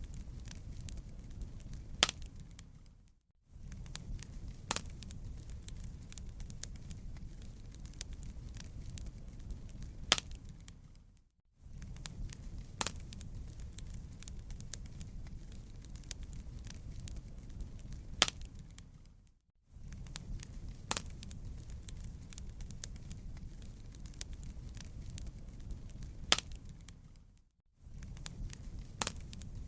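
Wood fire crackling in a fireplace: a steady low rumble with scattered small crackles and an occasional louder pop. The sound fades out briefly and starts again about every eight seconds, as a short recording looped.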